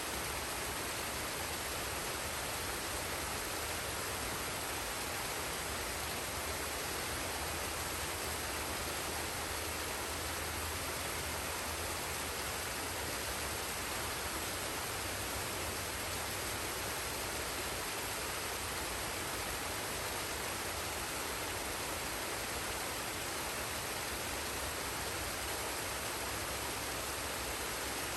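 Forest waterfall and stream: water falling and rushing in a steady, unbroken hiss.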